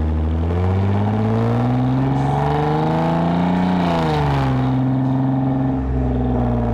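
2010 Lexus IS250 AWD's 2.5-litre V6 through an aftermarket full exhaust with valved mufflers, pulling under acceleration: the revs climb for about four seconds, drop sharply on an upshift, then settle into a steady drone.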